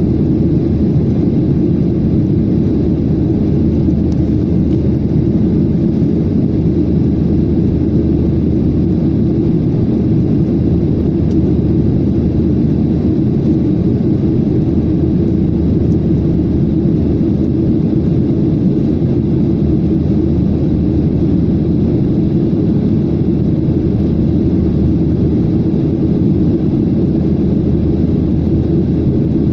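Airliner cabin noise: a steady low rumble of jet engines and rushing air, with no change in level.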